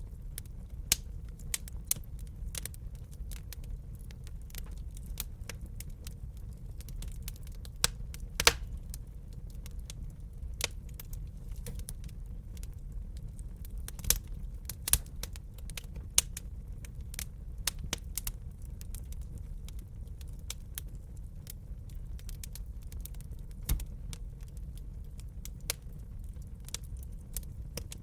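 Wood fire crackling in a fireplace: irregular sharp pops and snaps, a few louder ones about 8 and 14 seconds in, over a steady low rumble of the burning.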